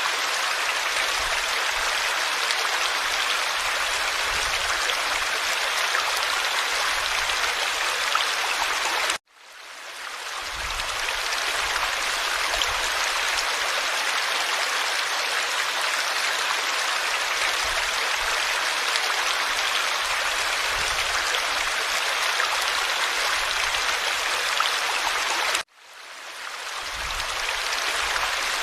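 Forest stream flowing over stones, a steady babble of running water. The sound cuts out abruptly twice, about nine seconds in and again near the end, and fades back up over a couple of seconds each time.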